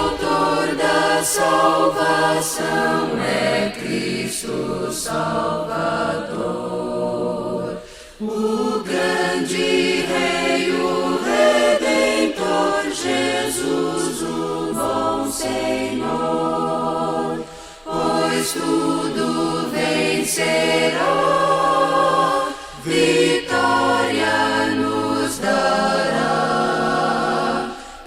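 A gospel vocal group singing a hymn in harmony, with brief pauses between phrases.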